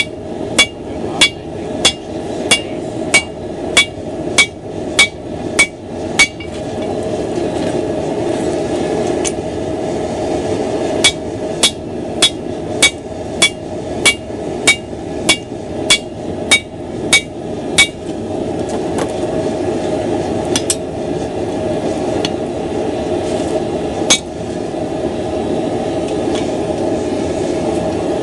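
Hand hammer striking hot steel on an anvil, ringing blows at about two a second in two runs with a pause between, then a couple of single blows. A steady rushing noise from the lit forge runs beneath.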